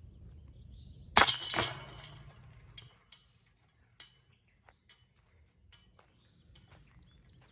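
A disc golf disc striking the basket's metal chains about a second in: a loud jingling clash of chains that rings and dies away over about two seconds.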